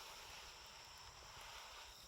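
Near silence: faint outdoor night ambience with a steady high insect drone, likely crickets, over a soft hiss.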